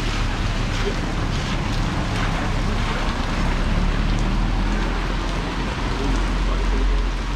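Rain falling over a steady low rumble.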